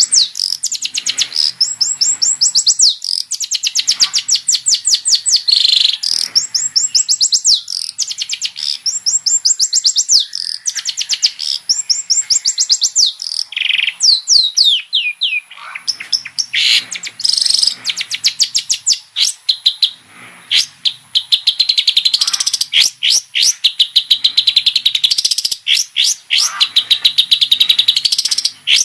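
Long-tailed shrike (cendet) singing in full voice: fast runs of sharp, high chirps, about ten notes a second, in phrases of a second or two with brief pauses between.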